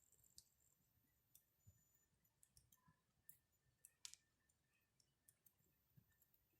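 Campfire crackling faintly: scattered sharp snaps and pops of burning wood, the loudest about four seconds in.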